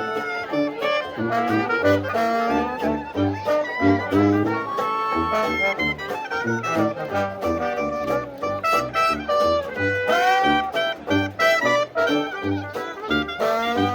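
A traditional New Orleans jazz band playing an instrumental passage before the vocal: brass lead lines, some sliding in pitch, over a pulsing tuba bass line and a steady rhythm.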